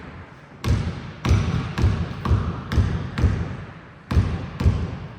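Basketball being dribbled on a hard court, about eight echoing bounces at roughly two a second.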